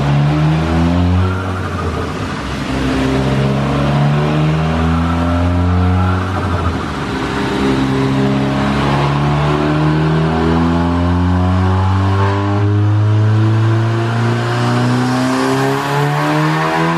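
Volkswagen MK7 Golf R's turbocharged 2.0-litre four-cylinder, fitted with an upgraded EQT turbo, on a full-throttle pull on a chassis dynamometer at 28 psi of boost. The revs rise, dip briefly about six and a half seconds in, then climb steadily.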